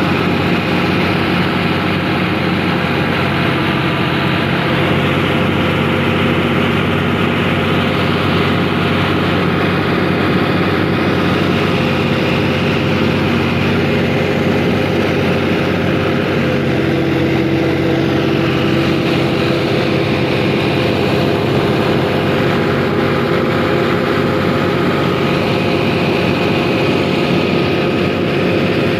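A 480 tractor's diesel engine running steadily under load while driving a paddy thresher, with the thresher's drum and blower running along with it.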